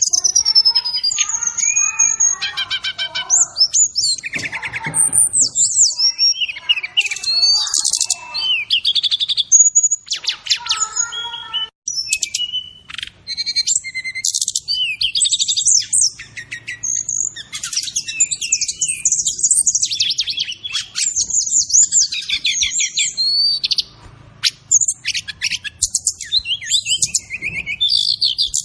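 Brown-chested jungle flycatcher (sikatan rimba dada coklat) song on a masteran training track: a continuous, varied stream of rapid high chirps, trills and sweeping whistled notes with brief pauses, mixed with fill-in phrases of other songs.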